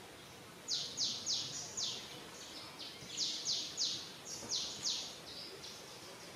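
A bird calling: runs of three or four quick, high notes, each sliding sharply downward, repeated several times.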